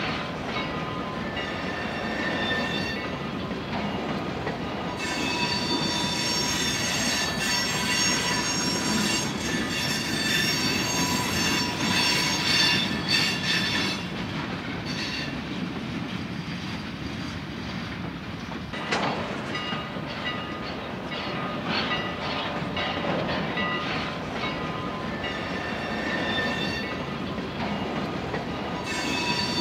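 Freight cars of a steam-hauled freight train rolling past. The steel wheels squeal in several steady high pitches over the rumble of wheels on rail, with a few sharp clicks late on.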